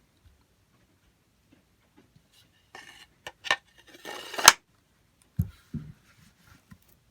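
A large ken-nata knife and its sheath being handled: a scraping slide with a few clicks, ending in one sharp click, then two dull knocks as it is set down.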